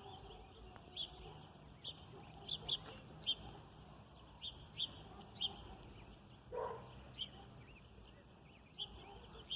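Small birds chirping, short high chirps repeating irregularly about once or twice a second, faint.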